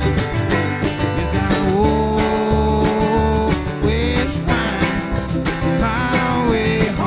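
Live country band playing an instrumental break: drums keep a steady beat under a lead guitar that holds long notes and bends and slides between them.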